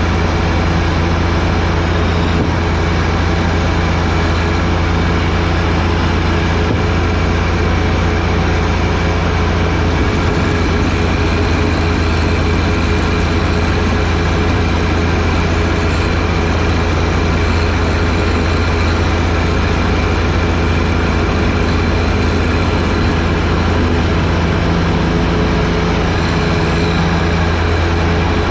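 John Deere 1025R tractor's three-cylinder diesel engine running steadily under snowblowing work with its 47-inch front snowblower, with a slight change in its note about ten seconds in.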